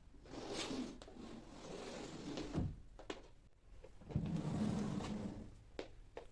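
Household handling sounds during cleaning: something slid or rubbed across a surface in two stretches, the second louder, with light clicks and knocks between.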